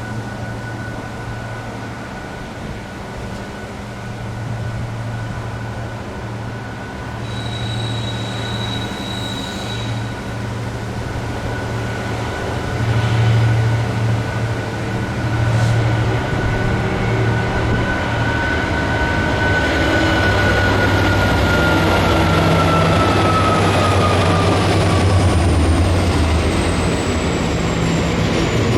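A diesel train approaching and passing, its engine rumble growing louder about halfway through. A high whine drops in pitch in the second half as the train goes by.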